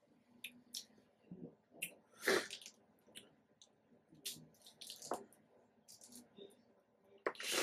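Wet mouth sounds of eating juicy fresh fruit close to the microphone: scattered short smacking clicks, with a louder wet smack about two seconds in and more near the end.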